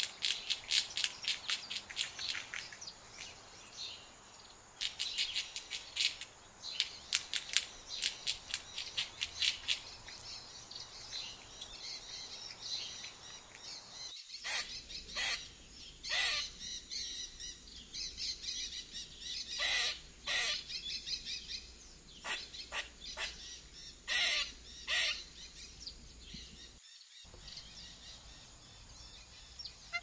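Squirrels calling: fast runs of sharp, high chirps and chatter, then after a cut about halfway through, single sharp chirps spaced a second or so apart.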